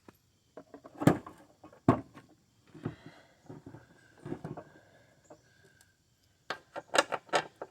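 Scattered knocks and clinks of hardware and tools being handled and moved about while searching for the engine mounting bolts, with a quick run of sharper clinks near the end.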